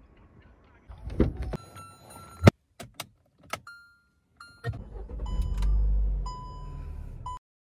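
Hyundai car started with the ignition key: key-turn clicks and dashboard warning chimes, then about halfway through the engine cranks and starts, runs up briefly and settles to idle while the chimes keep beeping.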